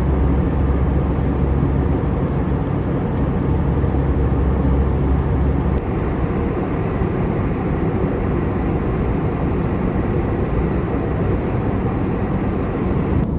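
Steady in-flight cabin noise of an Airbus A320: engine and airflow noise heard from a passenger seat. A deep low drone under it drops away about six seconds in, leaving the even rushing noise.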